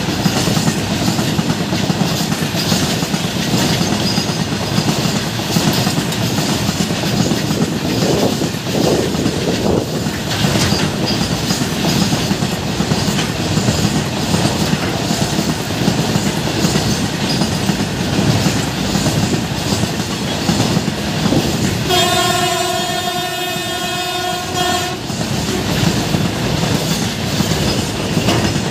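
Train running at speed alongside a goods train on the next track, with a steady rumble and clatter of wheels on rails and passing wagons. About three quarters of the way in, a train horn sounds one steady note for about three seconds.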